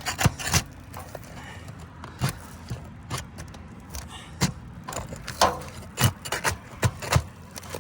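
Asphalt roof shingles being pried loose from their sealant strip, giving a string of irregular sharp cracks and scrapes. The shingles are brittle and crack open as they are unsealed.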